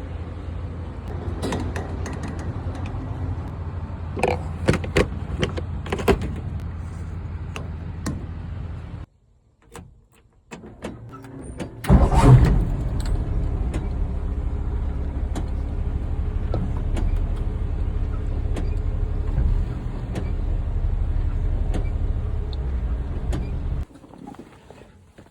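Ford F100 truck engine running steadily, with a few sharp clicks in the first six seconds. It stops suddenly about nine seconds in, then about three seconds later comes back with a loud burst and runs steadily again until it cuts off shortly before the end.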